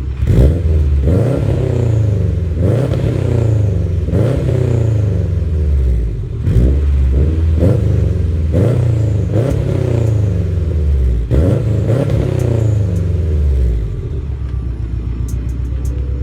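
Subaru WRX STI's turbocharged flat-four revved again and again, each rev climbing and falling back, about nine times, then settling to idle about 14 seconds in. It is heard through a catless turbo-back exhaust with a single muffler.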